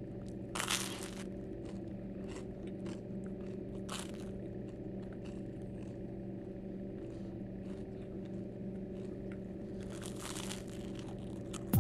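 Someone biting and chewing crunchy food, with three louder crunches (about a second in, at about four seconds and near the end) and faint crackles between, over a steady low hum.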